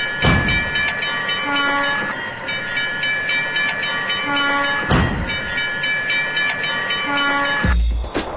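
A train at a railroad crossing: steady high ringing tones run throughout, with short lower horn-like notes about every three seconds and two heavy knocks. Music with a bass drum comes in near the end.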